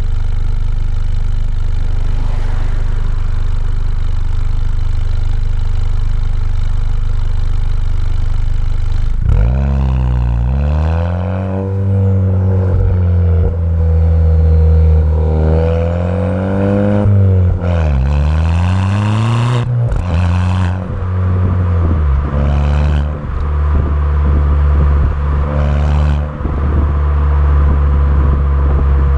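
Car engine heard through a Milltek cat-back race exhaust from outside. It idles steadily for about nine seconds, then is revved several times, with a couple of longer held revs and several short throttle blips, before settling back to idle near the end.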